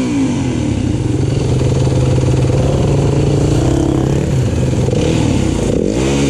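Yamaha WR-F four-stroke dirt bike engine running at a steady speed, then revving up and back down once near the end. The rider says the throttle is sticking.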